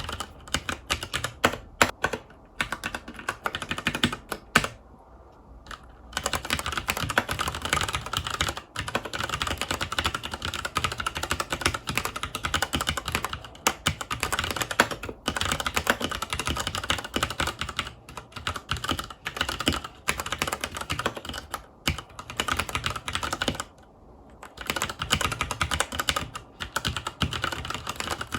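Filco Majestouch 2 Hakua tenkeyless mechanical keyboard with Cherry MX Brown switches being typed on in fast, continuous runs of keystrokes. The typing pauses briefly about five seconds in and again about four-fifths of the way through.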